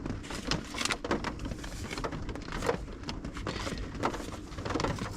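Sheets of paper stickers and cards being handled and shuffled: irregular rustling with small clicks and taps.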